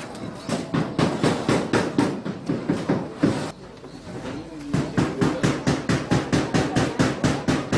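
Rapid hammering, about five blows a second, in two runs with a pause of about a second in the middle.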